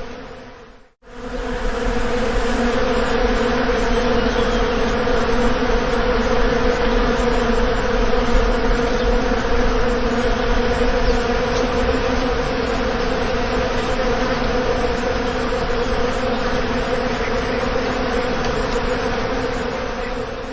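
Bees buzzing in a steady drone. It fades out to a moment of silence about a second in, fades back up, and starts fading again near the end.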